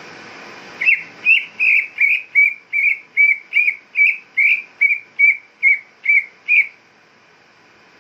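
A cucak ijo (green leafbird) calling: a run of about fifteen short, clear whistled notes, roughly two and a half a second, each with a quick bend in pitch. This is the kind of call played to provoke a caged bird into singing. A steady hiss before the notes cuts off just as they begin.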